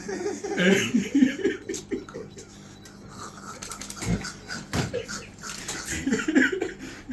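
Indistinct talking between studio guests, with a couple of dull thumps around the middle.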